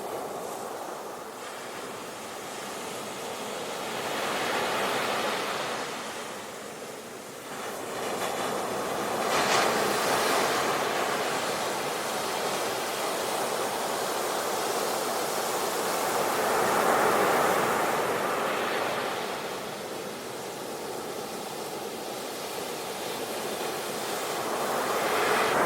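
Ocean surf: waves breaking and washing ashore in slow swells that build and ease every several seconds, one sharper break about a third of the way in.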